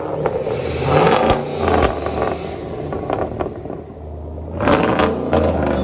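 2019 GMC Sierra's 5.3-litre V8 through a straight-piped true dual exhaust, revved twice: once about a second in and again near the end, dropping back to idle in between.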